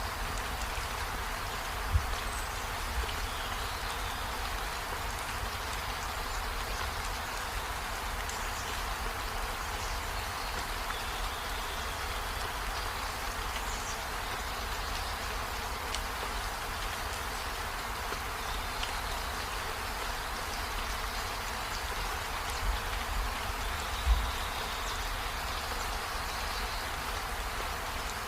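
Steady rainfall, an even hiss that does not change. Faint short high tones come and go through it. Two brief low thumps, about two seconds in and near the end, are the loudest moments.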